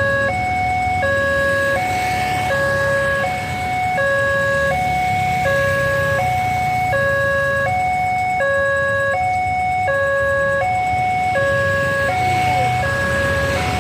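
Indonesian railway level-crossing warning alarm sounding: an electronic two-tone signal, a lower and a higher tone alternating evenly, about one low-high cycle every one and a half seconds, over a low rumble. It warns that a train is approaching and the crossing gates are closed.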